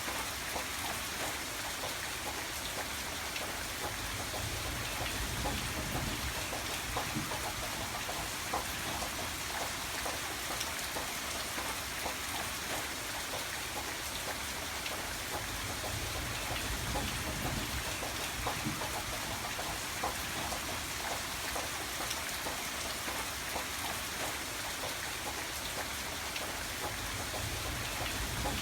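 Steady rainfall, with many small drops pattering and a low rumble swelling and easing now and then.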